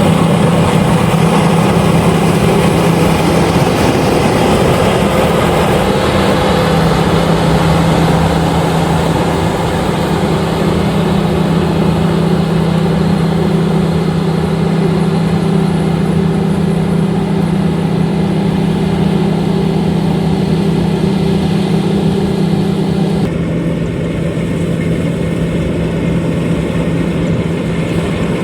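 LOVOL RG130EVO rice combine harvester running steadily with a strong, even engine hum. Near the end the higher-pitched part of the sound abruptly drops away while the hum carries on.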